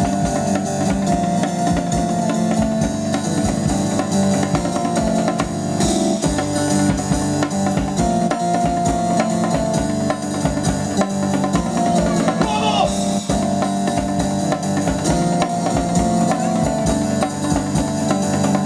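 Live band playing an instrumental stretch of an up-tempo song, with drums keeping a steady beat under sustained instrument chords.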